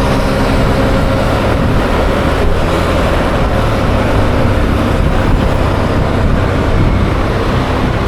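Yamaha Aerox 155's single-cylinder engine running steadily while riding, under a constant hiss of road and wind noise.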